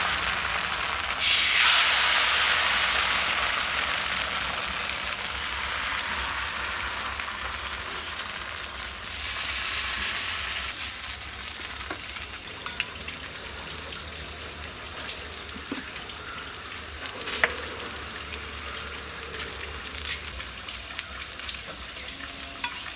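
Vellayappam batter sizzling on a hot oiled griddle stone: a loud frying hiss that jumps up about a second in, then slowly dies down, with small crackles and pops later on.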